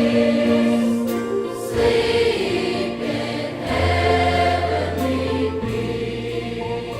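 Large high school choir singing sustained chords in a seasonal concert piece, the harmonies shifting every second or two over held low bass notes, growing gradually softer toward the end.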